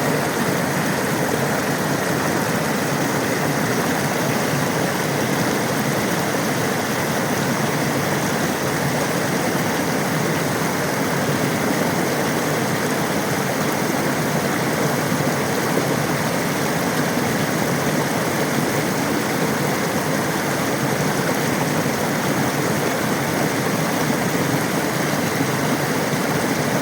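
Steady rushing water, an even unbroken noise that holds at one level throughout.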